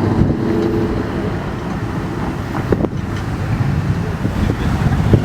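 Car engines running, a low rumble with wind buffeting the microphone.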